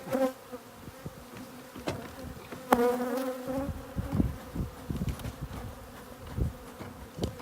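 Honeybees from an opened roof hive buzzing as a steady hum, with a louder close buzz about three seconds in. Scattered knocks and thumps sound over the hum.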